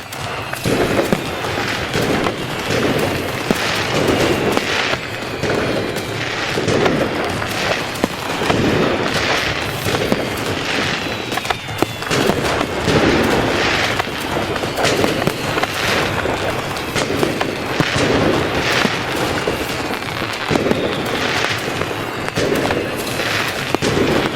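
Fireworks going off in a dense, continuous barrage: bangs about every second over constant crackling, with faint whistles falling slowly in pitch.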